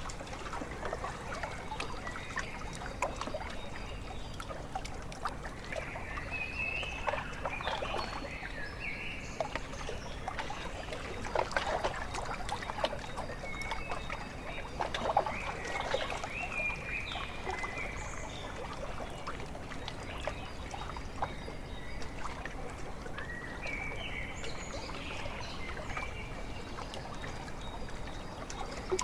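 Small lake waves lapping and splashing at the shore in irregular clusters, with birds calling in short high groups of notes now and then.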